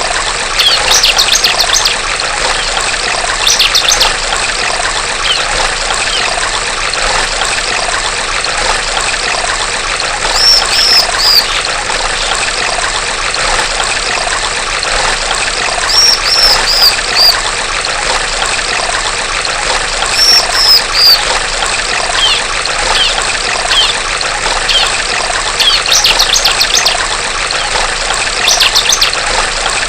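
Steady trickling of running stream water, with a female ciblek (bar-winged prinia) giving short bursts of high chirps every few seconds, some as quick falling series of four or five notes.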